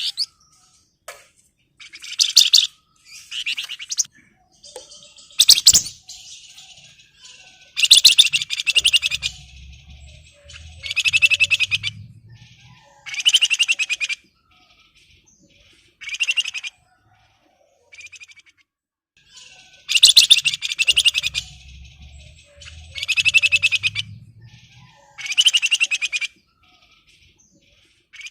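A male Javan fulvetta (flamboyan, wergan Jawa) in breeding condition gives bursts of fast, dense, high chattering song every second or two, the excited display song used to call out rivals.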